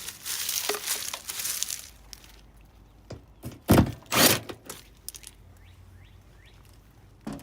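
Rustling handling noise, then two loud knocks about half a second apart, followed by a few faint high chirps and a small click near the end.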